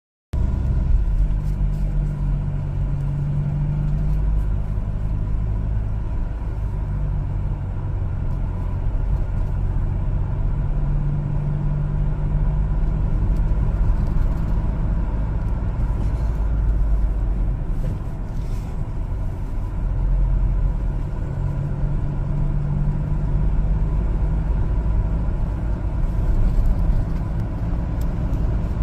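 LPG-fuelled one-ton cargo truck driving: steady engine and road rumble, the low engine hum swelling and easing every few seconds.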